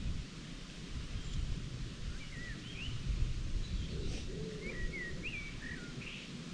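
A songbird chirping in short rising-and-falling phrases, once around two seconds in and again around four to five seconds in, over a steady low rumble of outdoor background noise.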